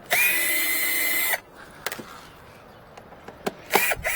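Cordless drill-driver whirring in two bursts of about a second each, one just after the start and one near the end, each spinning up into a steady whine, working refrigerator door hinge screws.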